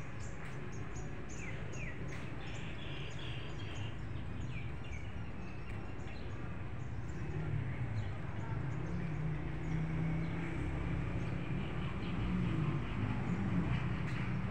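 Small birds chirping in quick, short notes, thickest in the first half, over a steady low rumble that grows a little louder toward the end.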